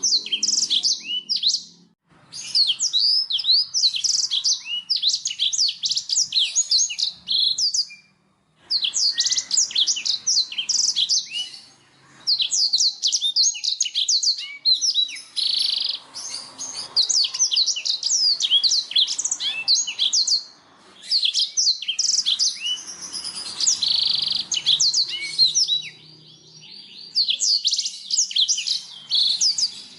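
Blackthroat (black-throated canary) singing: long runs of fast, high twittering and trilling notes, broken by short pauses every few seconds.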